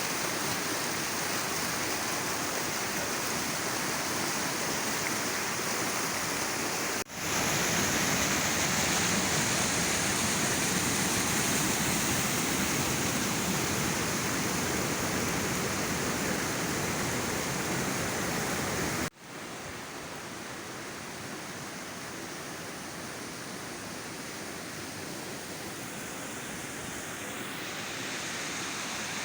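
Waterfall swollen with rainwater: a steady rush of falling water. It breaks off abruptly twice, about a quarter and two-thirds of the way through, and is quieter after the second break.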